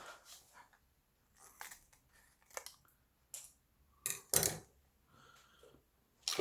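A few separate short clicks and crinkles from handling small plastic pouches of vegetable and fruit extract, with a close pair about four seconds in the loudest.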